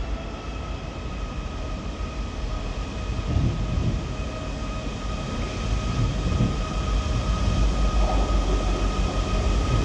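Two coupled Class 158 diesel multiple units pulling out, their diesel engines running with a low rumble and a steady high whine that grows gradually louder.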